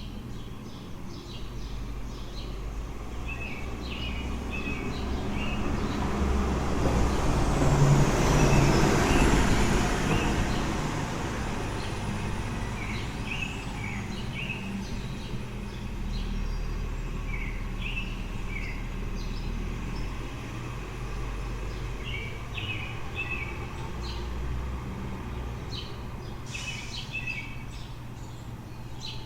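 A road vehicle drives past, its noise swelling to a peak about eight seconds in and then fading, over a steady low city hum. Small birds chirp in short repeated notes throughout.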